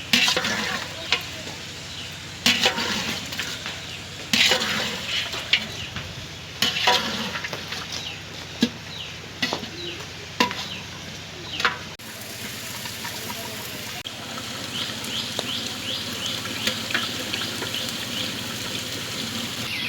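Chicken roast cooking in a pan: a spatula scraping and knocking against the pan during the first half, then a steady sizzle with small crackles.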